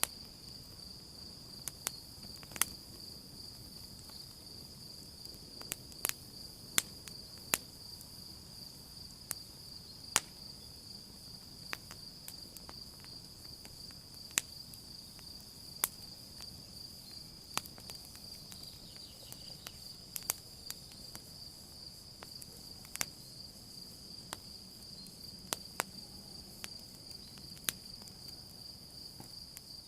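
Crickets trilling steadily in one unbroken high-pitched tone, over the irregular sharp pops and crackles of a burning campfire.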